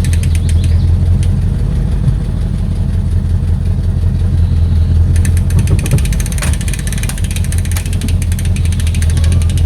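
An engine running steadily at idle, a strong low hum, with scattered clicks and rattles from about five seconds in.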